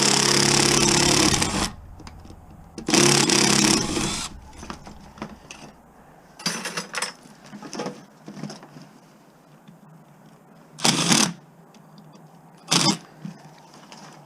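Handheld power driver motor running in two bursts of about two seconds each, backing out or driving screws on scrap, followed by several shorter bursts.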